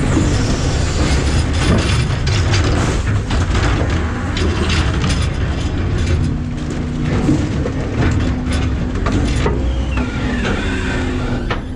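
McNeilus ZR rear-loader's hydraulic packer running a compaction cycle, the truck's engine rumbling steadily under load while trash is crushed in the hopper with a run of cracking and snapping.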